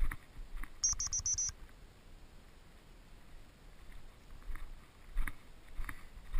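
Footsteps crunching through field cover, irregular at first and more frequent near the end, with a quick run of four short high-pitched electronic beeps about a second in.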